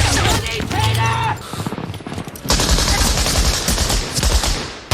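Film battle soundtrack: shouting voices over a low rumble at first, then from about two and a half seconds in a dense run of rapid automatic gunfire.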